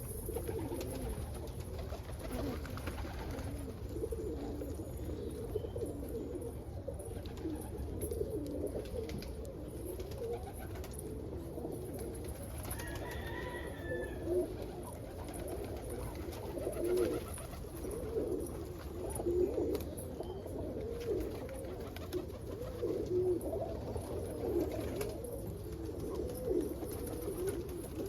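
Several Birmingham roller pigeons cooing, their wavering calls overlapping one another without a break, over a steady low hum.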